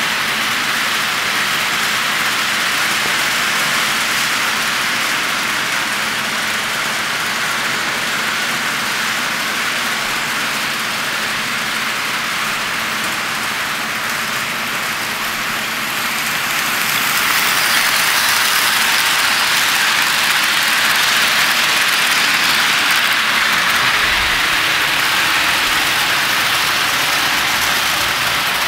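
HO-scale model train running on the layout's track: a steady rolling whir of wheels on rail and the locomotive's motor, growing louder about two-thirds of the way through as it comes closer.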